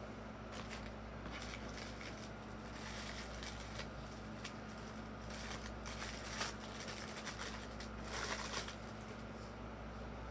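Crinkling and rustling of toy packaging being handled and torn open, in irregular bursts with a louder stretch near the end, over a steady low hum.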